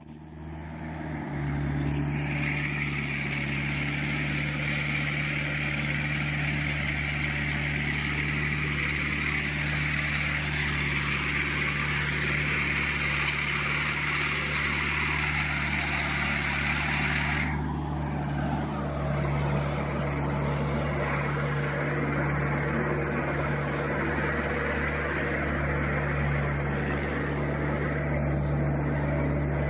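Mahindra tractor's diesel engine running steadily, labouring on an uphill climb. A high hiss rides over the engine and cuts off suddenly a little past halfway.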